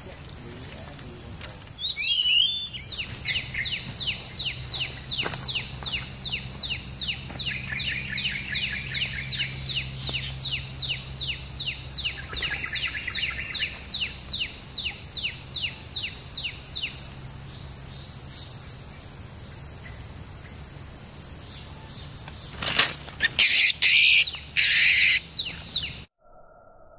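Songbird giving a long run of short repeated chirps, about three or four a second, over a steady drone of insects; near the end, several loud bursts of wing-flapping as a bird flutters at the trap cage.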